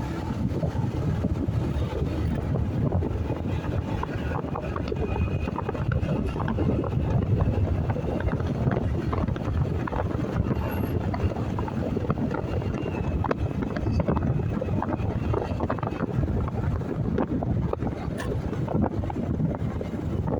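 Wind buffeting the microphone over the running engine and road noise of a motorcycle underway.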